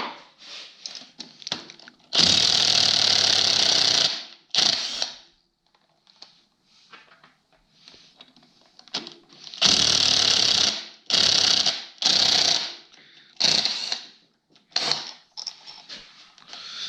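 Air impact wrench run in bursts, loosening the bolts of a cover plate on a snowmobile engine's cases. One burst of about two seconds comes first, then after a pause a string of shorter bursts.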